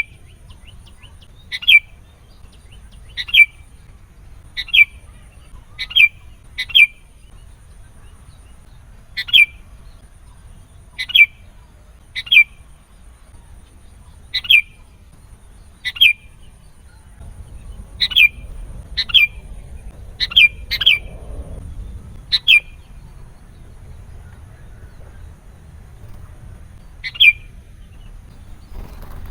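Sooty-headed bulbul (kutilang) giving short, sharp single call notes, one every second or two at an irregular pace, with a pause of a few seconds near the end.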